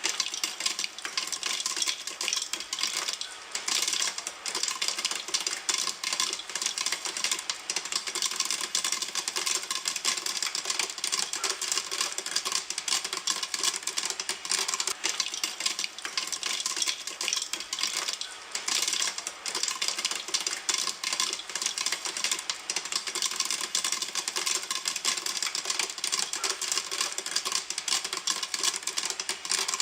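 Popcorn kernels popping in a pan: a dense, steady stream of sharp pops and crackles, many per second, without a break.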